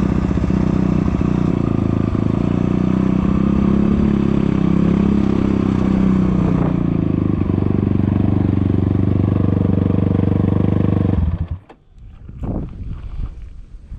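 Kayo K6 250 fuel-injected dirt bike engine running steadily while being ridden, with some clatter. The engine sound stops abruptly about eleven seconds in, leaving quieter, uneven noise.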